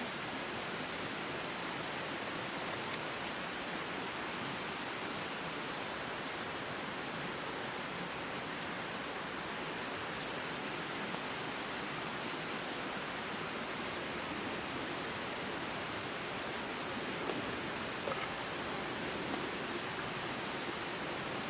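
Steady, even rushing of water, with a few faint ticks in the last few seconds.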